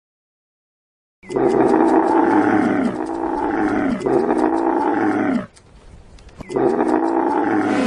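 Dromedary camel groaning in long, rough calls that start about a second in, stop for about a second near the end, then start again.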